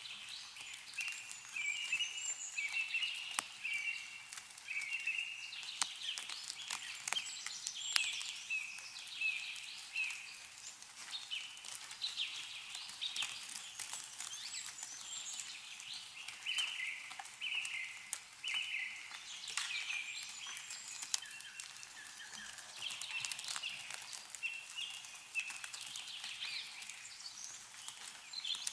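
Songbirds calling and singing throughout in quick runs of short repeated chirps. Scattered sharp drips of melting snow fall from the trees.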